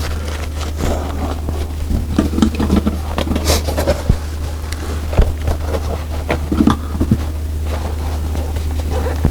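Steady low hum of an electric sewing machine motor, with scattered irregular clicks and knocks over it.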